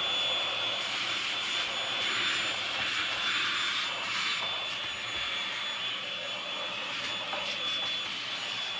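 Milwaukee M18 cordless compact vacuum running steadily: a continuous airflow hiss with a constant high motor whine.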